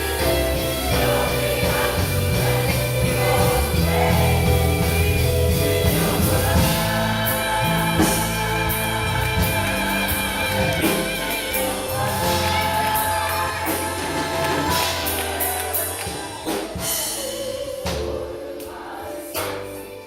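Gospel choir singing in harmony with instrumental accompaniment and a bass line; sustained notes with vibrato in the middle, and percussion strikes near the end.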